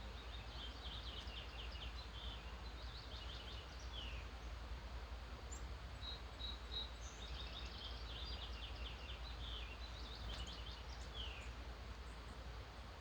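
Songbirds in a dawn chorus: a small bird sings about four phrases of rapid high notes, each ending in a short downward slur. A steady low hum runs beneath.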